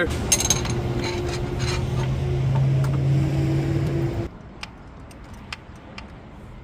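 A steady mechanical hum, like a motor or engine running, that cuts off suddenly about four seconds in, followed by a few light clicks and taps.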